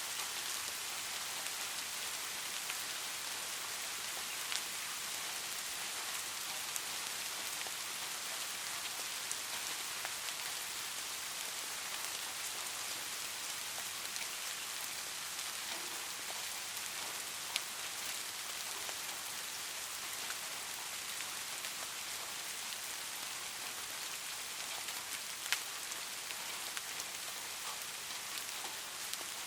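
Light rain falling steadily, a continuous hiss with scattered individual drops ticking louder here and there.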